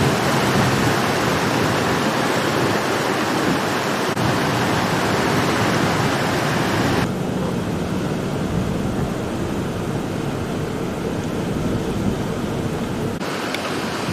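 Steady, loud rushing-water noise, an even hiss with no distinct events, changing character abruptly about seven seconds in and again near the end.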